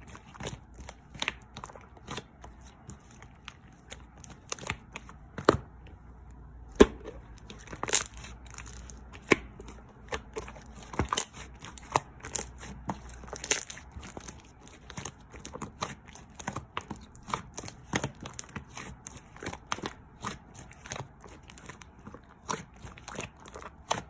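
Irregular crinkling and tearing of some material, with many sharp clicks and taps following each other throughout.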